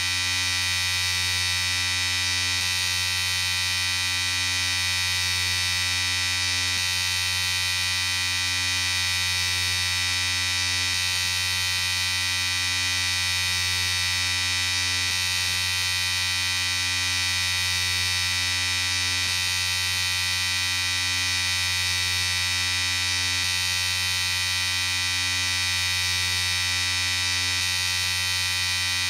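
Electric shaver running at a steady pitch, a constant buzz that holds unchanged throughout.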